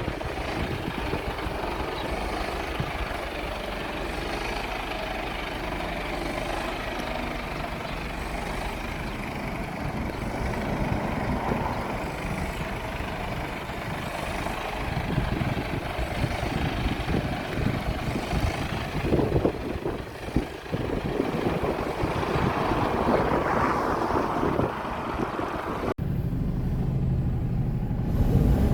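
Mercedes Actros 2545 tractor unit's 450 bhp diesel engine running steadily, with an abrupt change in the sound near the end.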